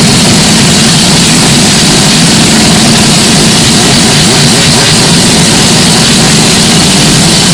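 Mazda 767B's four-rotor rotary race engine running at a steady pitch, with the audio deliberately overdriven so it comes out as a very loud, distorted noise.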